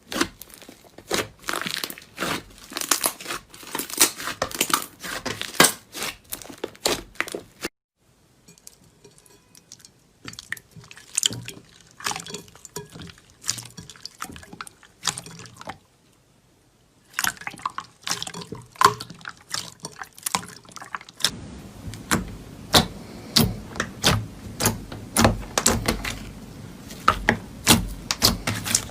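Slime being squeezed, stretched and poked by hand, giving rapid wet clicks, pops and crackles. It breaks off briefly twice, and from about two-thirds of the way in it sounds fuller and more squelchy.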